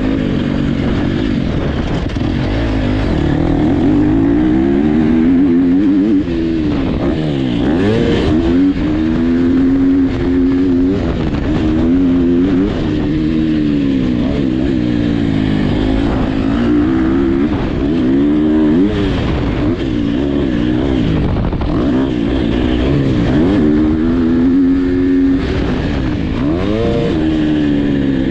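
Dirt bike engine revving hard on a motocross track. Its pitch climbs and drops every couple of seconds as the rider accelerates, shifts and backs off.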